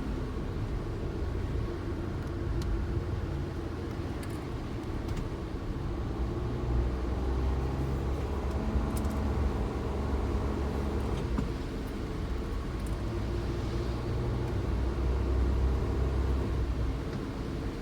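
Suzuki Jimny driving along a road, heard from inside the cabin: a steady low engine and road rumble that swells twice as the engine works harder.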